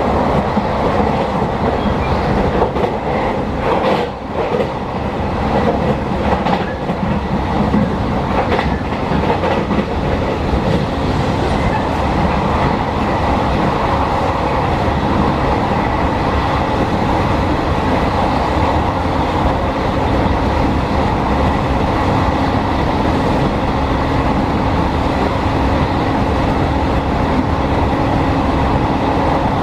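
Electric train running at speed, heard from inside the passenger car: a steady rumble of wheels on the rails, with a few clicks over rail joints in the first several seconds.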